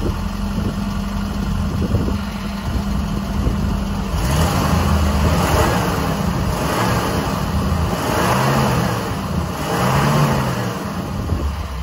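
1993 Geo Tracker's 1.6-litre four-cylinder engine, idling and then revved several times from about four seconds in, each rev rising and falling back.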